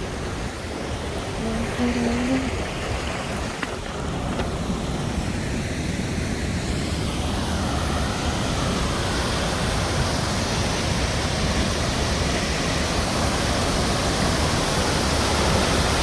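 Chitrakote Falls pouring, a steady, loud rush of falling water that grows fuller and brighter about halfway through.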